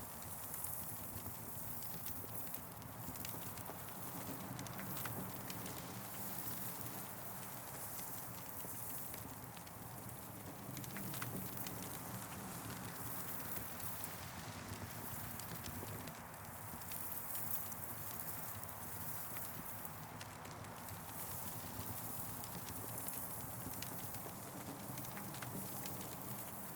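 Campfire burning, with irregular crackles and pops over a steady hiss.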